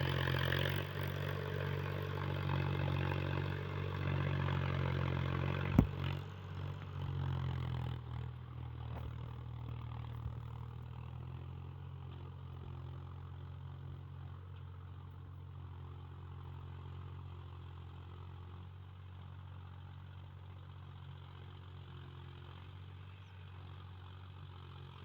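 Mahindra tractor's diesel engine running steadily, with one sharp knock about six seconds in; the engine then grows gradually quieter for the rest of the time.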